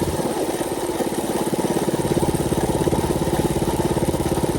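Mini bike's small engine idling steadily with an even, rapid firing pulse.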